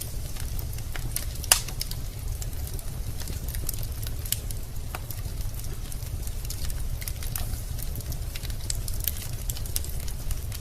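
Wood fire crackling in a fireplace: irregular snaps and pops from the burning logs over a steady low rumble, with one louder pop about a second and a half in.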